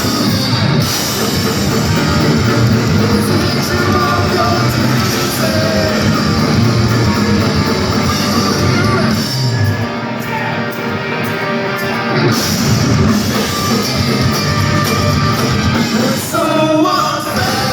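Rock band playing live: distorted electric guitars, a drum kit and a singer, loud throughout, with the bass end dropping out briefly about ten seconds in.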